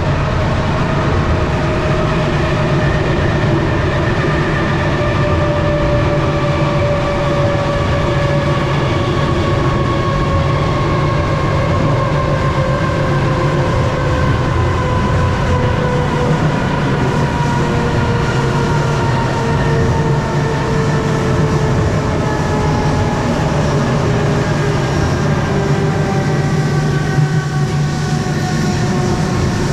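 Inside a moving commuter train: the carriage's steady running rumble, with a whine that slowly falls in pitch as the train slows.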